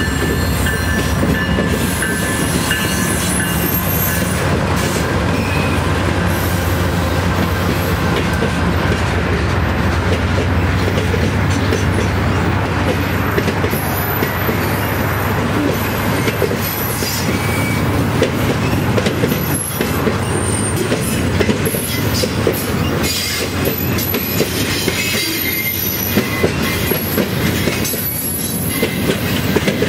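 Diesel-hauled freight train passing close by. A steady low locomotive engine hum stands out in the first half, then the passing cars rumble on with intermittent high wheel squeal and clickety-clack from the wheels over rail joints.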